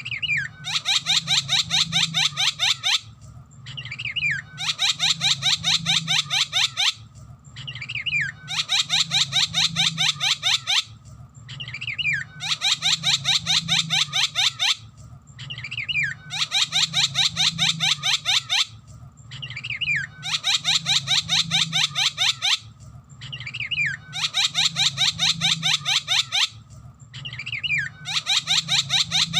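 Javan myna song: a short downward-sliding whistle followed by a rapid run of sharp repeated notes lasting about two seconds, the same phrase repeating about every four seconds.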